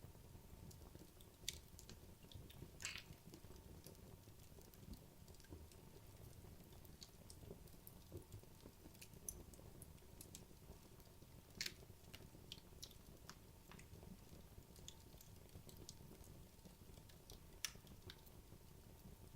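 Wood logs burning in a fireplace: soft, sparse crackling over a low steady rumble, with a few sharper, louder pops scattered through.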